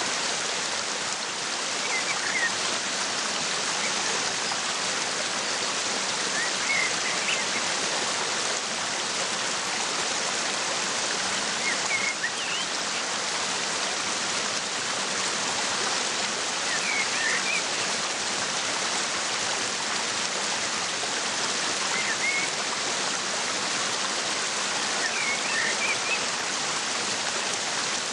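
Waterfall rushing steadily, with short bird chirps breaking through about every five seconds.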